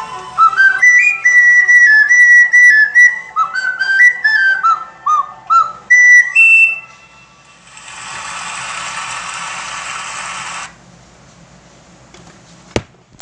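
A whistled tune in quick high notes with slides between them, ending about seven seconds in. A steady hiss follows for about three seconds, then a single sharp click near the end.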